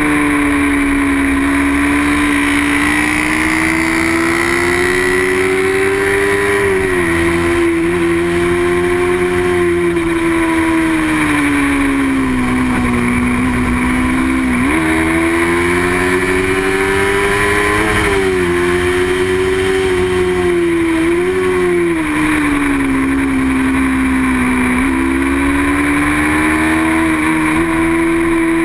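Racing motorcycle engine running hard and continuously. Its note slowly rises and falls with the throttle, and there are a few sudden steps in pitch.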